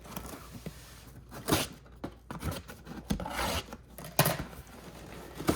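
Cardboard snack box and its packaging being handled and opened by hand: intermittent scraping and rustling with a few sharp clicks.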